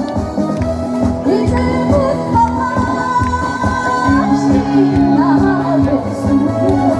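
Live music: a singer with vibrato over an amplified band accompaniment with a steady beat.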